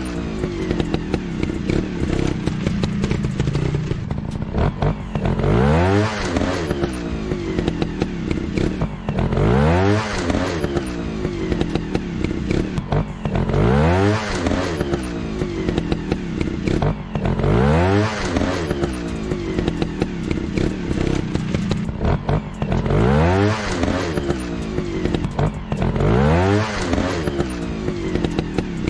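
Trail motorcycle engines revving up and dropping back again and again, about every four seconds, over a steady lower engine drone.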